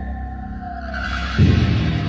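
Suspenseful film-score music with sustained tones. About a second in a hissing swell rises, and a loud low boom hits about one and a half seconds in.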